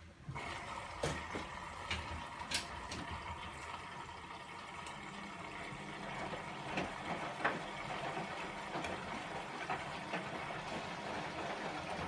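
Bosch WAE24162GB03 washing machine with water suddenly starting to rush through it during its rinse cycle. It makes a steady hiss of flowing water with scattered clicks and splashes.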